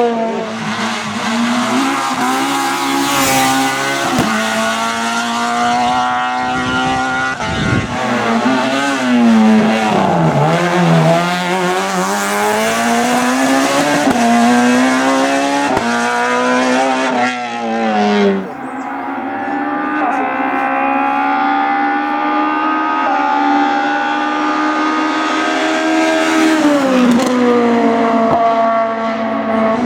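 Citroën AX rally car engine at high revs, pitch climbing and dropping repeatedly through gear changes and lifts. The sound changes abruptly about two-thirds of the way in, to a steadier engine note.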